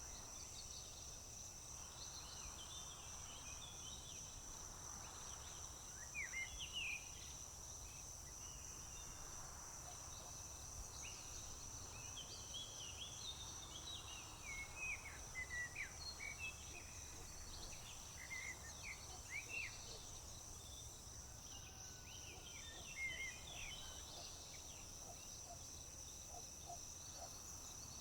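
Summer field ambience: a steady high-pitched trill of crickets runs underneath, while songbirds chirp in short, quick phrases that come in clusters.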